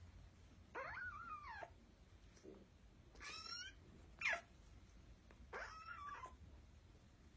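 Very young kittens mewing: four faint, high, thin mews with pitch that bends up and down, spaced unevenly a second or two apart.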